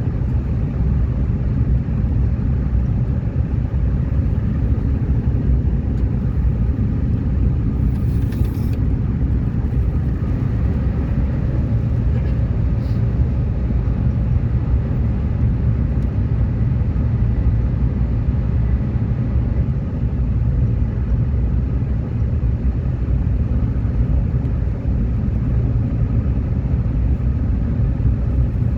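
Subway train running, a steady low rumble of wheels and running gear on the track, with a brief hiss about eight seconds in.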